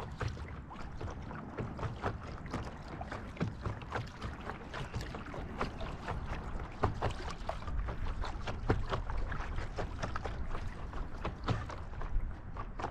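Paddles dipping and splashing in river water, with many irregular small knocks and splashes over a steady low rumble.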